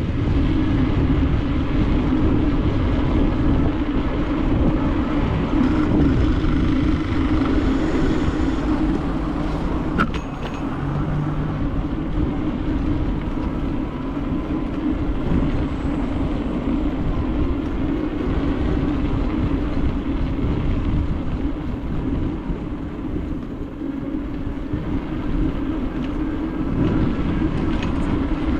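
Continuous rolling and wind noise from a bicycle ride: a steady low hum over rumble, with a single sharp click about ten seconds in.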